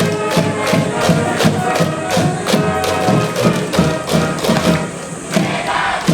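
School cheering band in the stands playing a cheer song: brass instruments over a steady drum beat.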